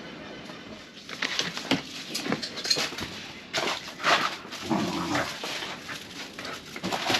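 A dog giving a quick run of short barks and cries, starting about a second in.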